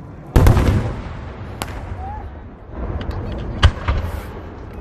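Aerial fireworks bursting: a loud boom about a third of a second in that rumbles away over a second, a sharp crack shortly after, then another rumbling burst with a single sharp bang near the end.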